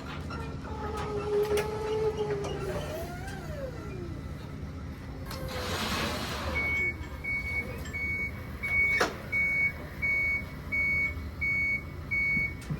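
A truck's reverse alarm beeping in an even single tone, nearly twice a second, starting about halfway in, over the steady low run of a truck engine. Just before the beeping starts comes a short hiss of air.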